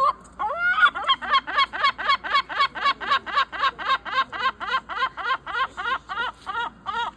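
A bird calling a long, loud series of rapid laughing notes, about four a second, after a rising opening note, slowing slightly near the end. The man takes the call as a demand to be left in peace.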